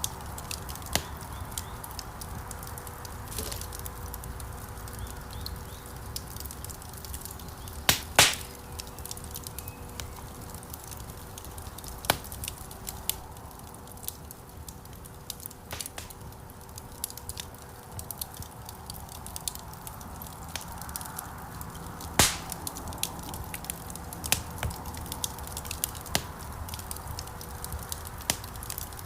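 Wood fire burning in a stone fireplace, crackling steadily with many small snaps and two sharp, loud pops, one about eight seconds in and one about twenty-two seconds in. A faint steady hum runs underneath.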